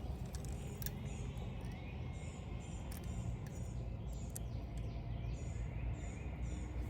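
A songbird calling outdoors, repeating short high chirps about twice a second from about two seconds in, over a steady low rumble of wind on the microphone. A few faint clicks sound early on.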